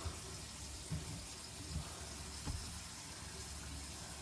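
Tap water running steadily into a bathroom sink, with a few faint knocks.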